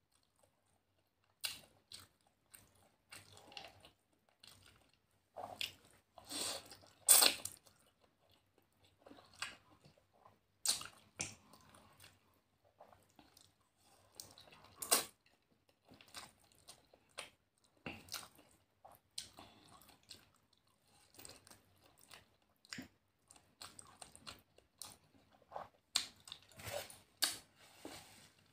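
A person chewing and eating noodles: irregular wet mouth smacks and clicks, the loudest about seven seconds in.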